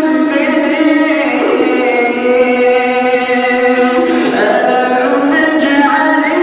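A man's voice reciting the Quran in melodic tajweed style, holding long drawn-out notes that slide slowly in pitch, with only short breaks between phrases.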